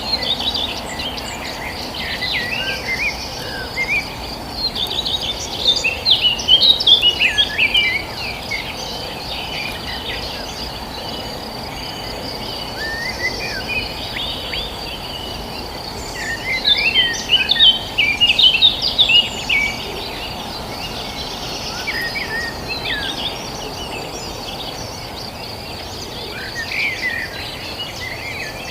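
Several songbirds chirping and twittering in bursts, loudest around six seconds in and again around sixteen to twenty seconds in, over a steady high insect drone and a low background hiss.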